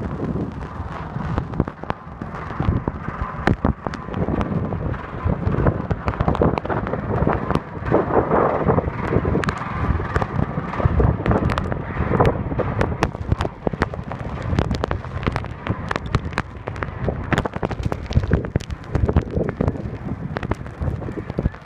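Blizzard wind buffeting the microphone as a loud, gusty rumble, with many sharp crackles and clicks throughout.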